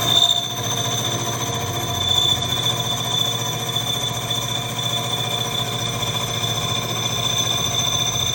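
A shop machine's electric motor starts abruptly and runs steadily with a high-pitched whine over a low hum.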